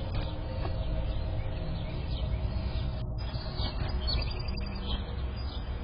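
Outdoor ambience picked up by a doorbell camera's microphone: a steady low rumble with short bird chirps scattered over it.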